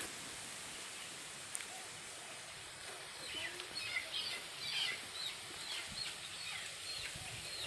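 Birds chirping faintly over steady outdoor background noise, in a string of short calls starting about three seconds in.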